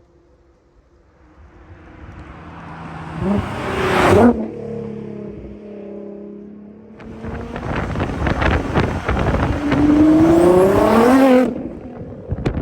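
Nissan GT-R's 3.8-litre twin-turbo V6 driving past at speed, swelling up and dropping sharply in pitch about four seconds in. From about seven seconds it accelerates hard, loud, with the engine note climbing in pitch near the end.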